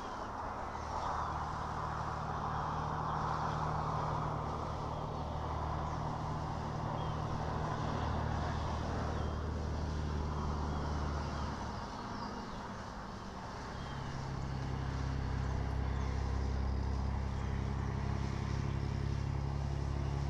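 Low, steady engine hum of motor traffic that fades about twelve seconds in and comes back at a different pitch, with faint bird chirps above it.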